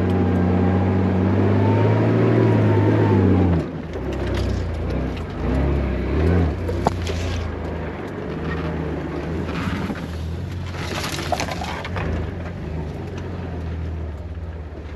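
An off-road vehicle's engine pulling hard under throttle, its pitch climbing a little before it lets off suddenly after about three and a half seconds. It then runs at lower revs with several bursts of rustling, crunching noise over it.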